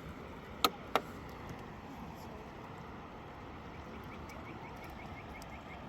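Two sharp knocks a split second apart, then a steady background hiss; in the second half a rapid run of faint high chirps, about four or five a second.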